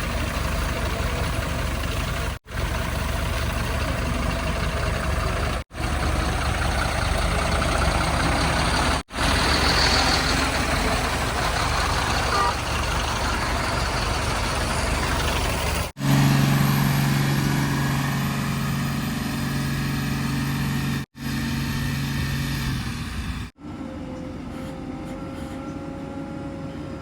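Heavy diesel machinery running steadily across a series of clips cut together abruptly. One clip about two-thirds through carries a deep, steady engine drone; the last clip is quieter, with a faint steady whine.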